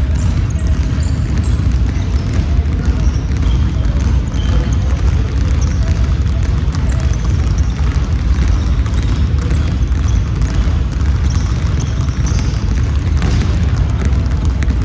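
Basketball game play in a gym: the ball bouncing, short high squeaks as from sneakers on the court, and players' voices, over a heavy low rumble on the microphone.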